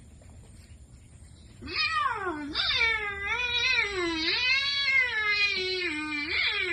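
Domestic cat yowling: starting about a quarter of the way in, one long drawn-out cry that wavers up and down in pitch, broken by a few brief pauses.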